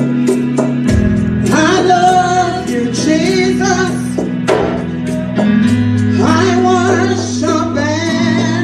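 Live gospel worship music: a band holding sustained chords over bass, with voices singing wordless or unrecognised lines and a steady beat of hi-hat ticks.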